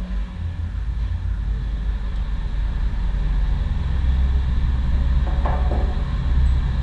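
Steady low engine rumble that grows slightly louder, with a brief clatter about five and a half seconds in.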